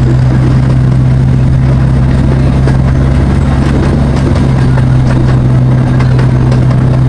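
Zoo train's locomotive engine running steadily under way, a constant low hum.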